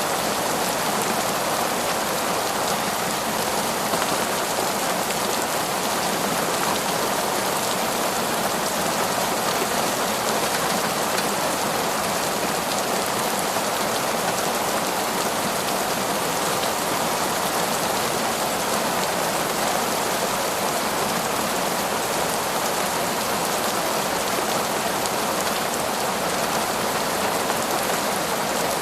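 Heavy, torrential rain falling steadily, a dense even hiss of drops with no thunder or other distinct sounds.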